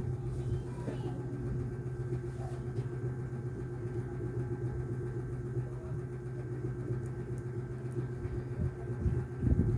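Steady low mechanical hum with a faint steady tone above it, and a few soft thumps near the end.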